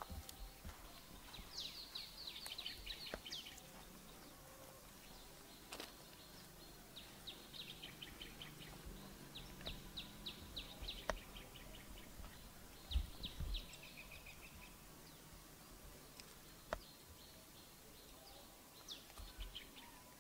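Faint songbird calls: several bursts of quick, high chirps, each burst a rapid run of notes, over a steady outdoor background hiss. A couple of low thumps come about two thirds of the way through.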